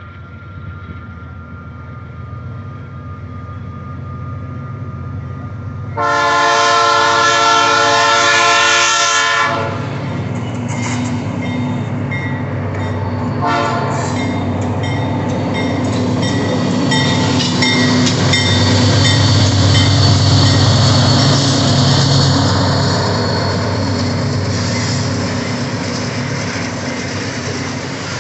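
Diesel freight locomotive approaching, giving one loud multi-tone air-horn blast lasting about three and a half seconds, about six seconds in. The locomotive then rumbles past and the train of container-loaded flatcars rolls by on the rails, loudest midway and slowly fading.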